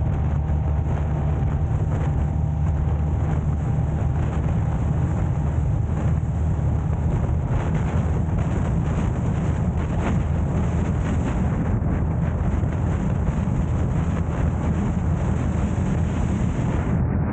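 A car driving, with a steady low rumble of engine and road noise and wind on the microphone.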